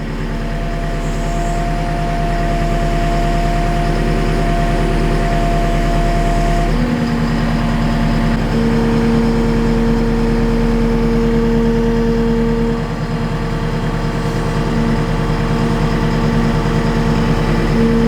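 JCB skid steer's diesel engine running, with a steady hydraulic whine as the 15-foot boom is moved; the whine changes pitch about seven seconds in.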